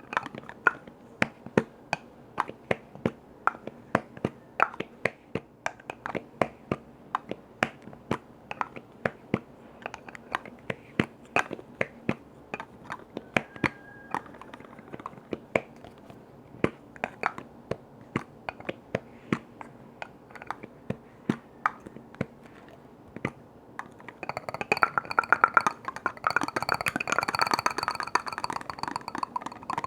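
Crisp tapping on hard objects, separate sharp taps about two to three a second, turning into fast, dense tapping for the last six seconds or so.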